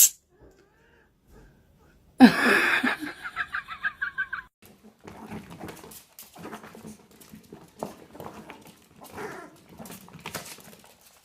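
A pet animal vocalising: a loud call with a wavering pitch about two seconds in, followed by softer, uneven grumbling sounds.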